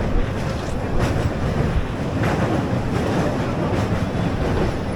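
Suburban electric local train running at speed, heard from inside the carriage: a steady rumble of wheels on the track with a few faint knocks from the rail joints.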